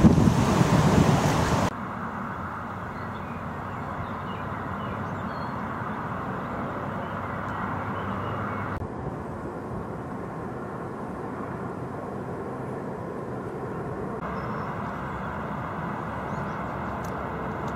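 Strong wind buffeting the microphone, cut off suddenly about two seconds in, followed by a steady, quieter outdoor hiss.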